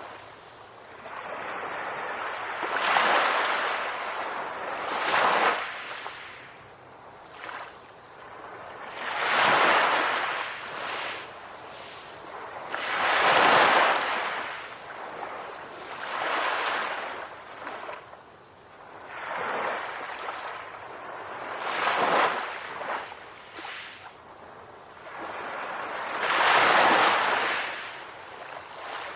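Ocean waves breaking and washing up the shore, each surge swelling and fading every three to four seconds.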